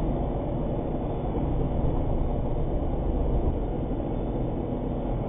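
Steady low rumble of an armored truck's engine, heard from inside the cab.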